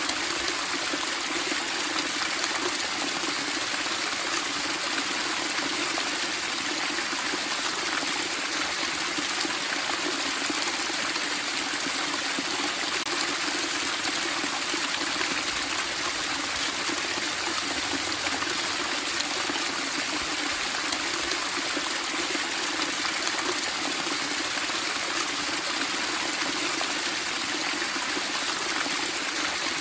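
Flowing water splashing and burbling steadily.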